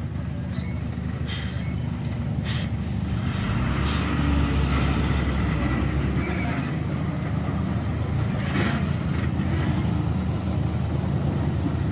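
Heavy truck's diesel engine running at low revs and growing louder about four seconds in, with a few short knocks.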